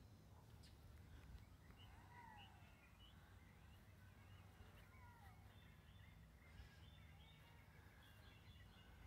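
Faint birds chirping and calling: scattered short chirps and a couple of falling whistled notes, over a low steady background hum.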